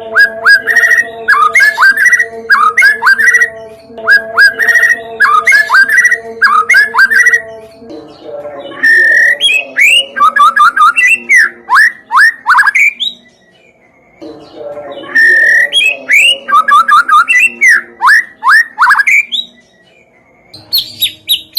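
Recorded songbird song played as a lure for white-rumped shamas: a short chirped phrase repeated over and over above a steady low drone, then from about eight seconds in, varied whistles and quick trills in bursts with short pauses.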